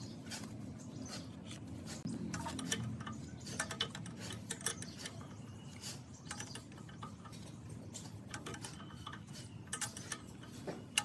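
Irregular light clicks and taps, several close together around the middle and a sharp one near the end, over a low steady hum.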